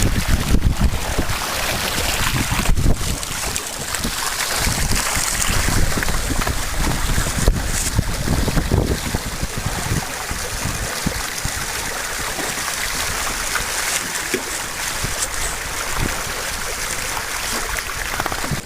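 Wind buffeting the microphone over the rush of water along the hull of an Old Town Discovery 169 canoe under sail, with a few sharp knocks in the first half.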